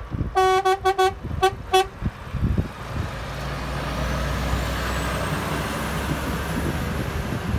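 Truck air horn giving a quick series of about six short blasts on one steady note, followed by the lorry rumbling past with tyre and engine noise.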